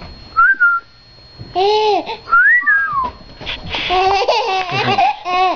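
A baby laughing, squealing and babbling in short arching cries, growing into continuous giggly babbling about four seconds in. Two brief high whistle-like squeaks sound between the cries, near the start and about halfway through.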